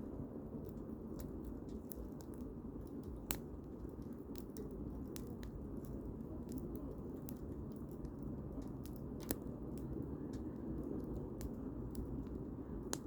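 Firewood burning in a campfire, crackling with many small irregular pops over a low steady background noise, with two louder pops about three seconds in and about nine seconds in.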